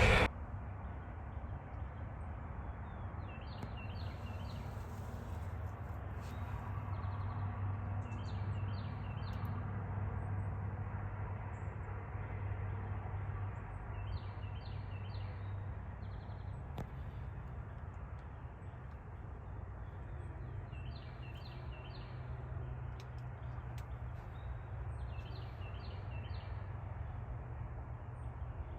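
Woodland ambience: a small songbird repeats a high call of three or four quick notes every five or six seconds, over a steady low hum.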